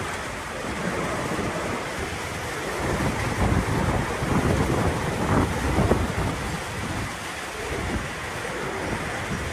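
Storm wind gusting, buffeting the microphone in irregular low rumbling surges over a steady rush of noise.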